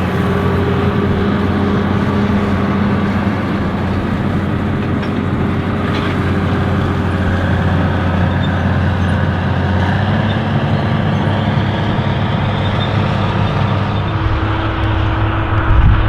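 Allis-Chalmers 7080 tractor's Cummins 8.3-litre diesel running steadily while pulling a chisel plow (mulch tiller). Its pitch shifts about ten seconds in and again a few seconds later.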